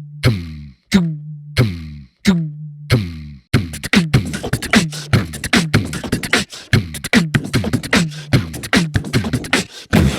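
Beatbox-style vocal percussion music: punchy, evenly spaced hits about every two-thirds of a second, breaking into a fast, busy pattern about three and a half seconds in.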